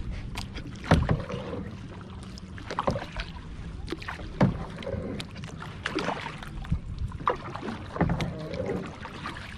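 Water splashing and lapping around a kayak as it is paddled, with a short splash about every second or so over a low steady rumble.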